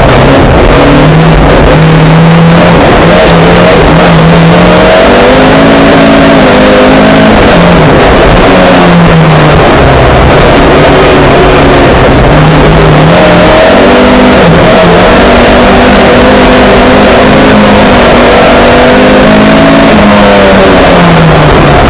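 Mk2 Ford Escort rally car engine driven hard, its pitch climbing and dropping back again and again through gear changes and lifts. Very loud throughout, at the limit of the recording.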